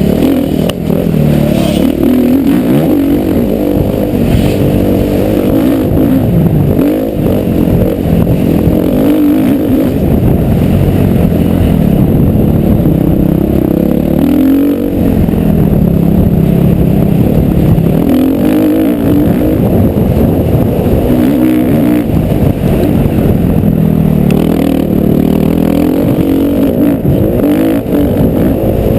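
Motocross bike engine under hard riding, its pitch rising and falling over and over as the throttle opens and closes. It is loud and sits mostly in the low and middle range.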